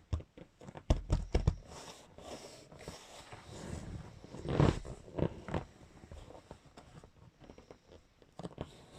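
Handling noises: a quick run of knocks and taps, then a louder rustling thump about four and a half seconds in, with a few lighter knocks near the end.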